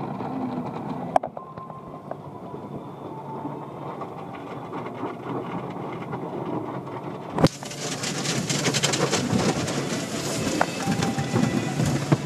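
Automatic car wash heard from inside the car: a steady rumble of the wash machinery and water. About seven seconds in there is a sharp knock, then a louder hissing wash of water and equipment over the car.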